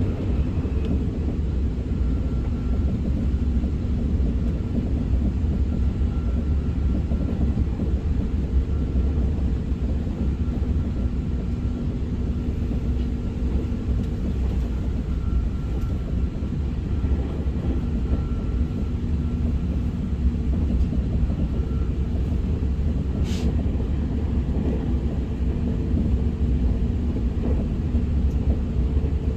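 SR 120000-series high-speed train heard from inside the passenger cabin while running at speed: a steady low rumble with faint steady hums on top. There is one short click about 23 seconds in.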